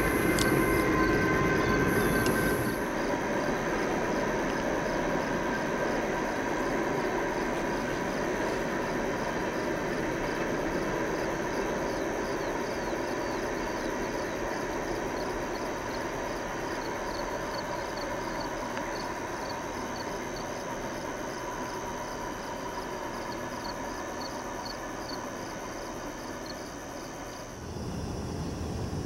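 BNSF freight train passing at a grade crossing, loud for the first few seconds, then dropping off and fading slowly into the distance as the last cars go by. A faint regular high chirping runs under it. Near the end a louder low rumble from another approaching train comes in.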